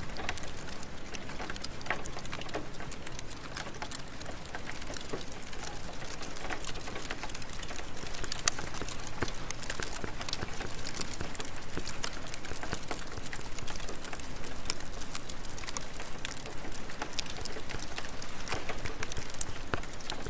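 Steady rain with a crackling fireplace: an even rush of rainfall over which many small, sharp crackles and pops come irregularly throughout.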